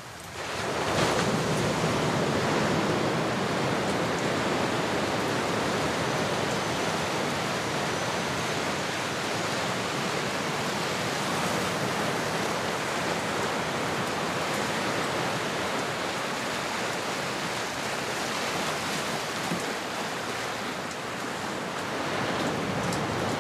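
Ocean surf: a steady rush of waves washing in, swelling up about a second in and then holding even.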